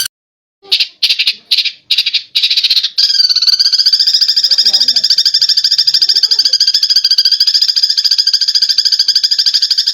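Eurasian tree sparrows' fighting chatter: a few short chirps in the first three seconds, then a continuous fast rattling chatter.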